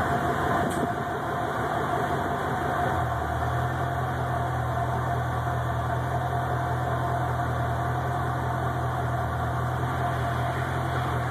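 Porsche 928S V8 engine running steadily, its low note growing louder about three seconds in and holding, with a steady higher hum above it.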